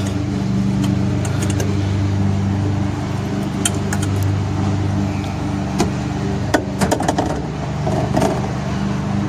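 Steady hum of an engine running, with a few sharp metallic clinks and taps from about three and a half seconds in as the step rail and its hardware are fitted against the mounting brackets.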